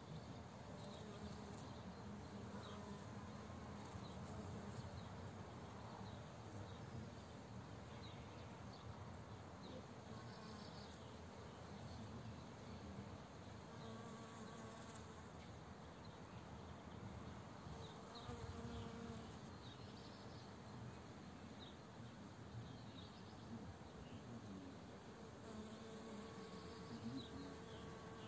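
Bees buzzing, a faint hum that wavers in pitch and swells and fades as they fly about, with small bird chirps in the background.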